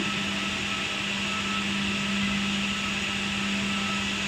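Edge banding machine running steadily: a constant motor hum under an even whir.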